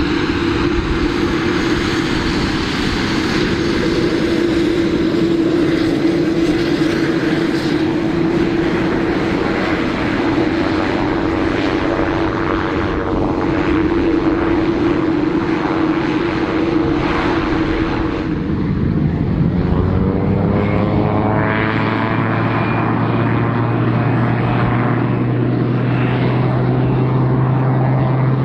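Light propeller aircraft's piston engine and propeller droning steadily at a fairly high pitch; about eighteen seconds in, the sound changes to a lower-pitched drone, with a brief glide in pitch.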